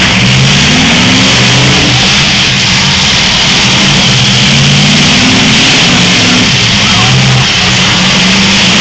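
Several demolition derby cars' engines running and revving at once, their revs rising and falling unevenly, very loud over a steady hiss.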